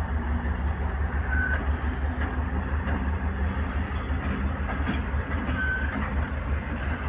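Freight train hauled by a VL10U electric locomotive running with a steady rumble, with two brief high chirps, one about a second and a half in and one later.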